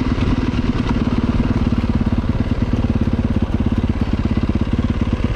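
Dirt bike engine running steadily at low, even revs, with a fast regular pulse to its note.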